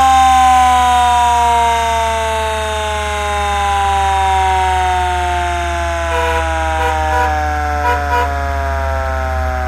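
1956 International fire truck's siren winding down, its pitch falling slowly and steadily over several seconds, over a low steady hum. A few short, brief tones cut in between about six and eight seconds in.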